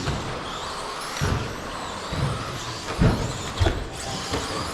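Electric 1/10-scale stadium trucks running on a dirt track: a wavering high motor whine with several dull thumps, about one a second.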